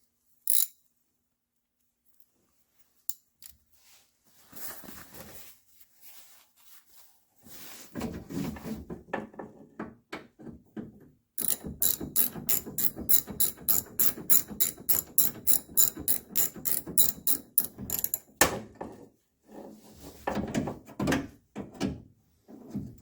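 A ratchet wrench driving a socket onto a nut clicks in a quick even run, about four clicks a second, for several seconds. Handling and rubbing of metal parts come before it, and a knock and more handling follow near the end.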